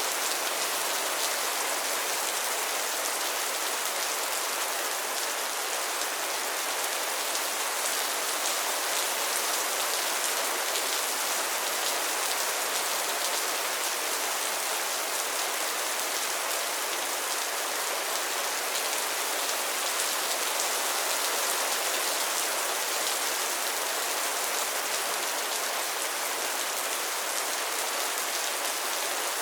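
Steady rain falling on pond water and lily pads: an even hiss dotted with many small drop hits, unchanging throughout.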